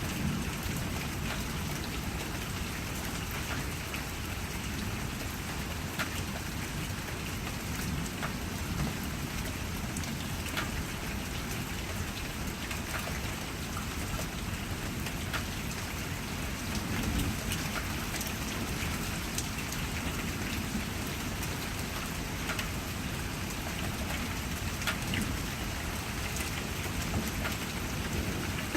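Steady rain falling, with single drops striking a hard surface close by, a sharp tap every second or two.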